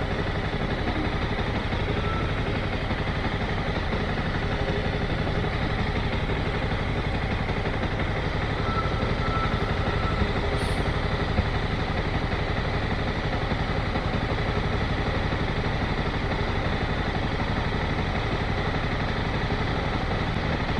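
Motorcycle engine running steadily at low revs. A couple of faint short tones are heard, about two seconds in and again near the middle.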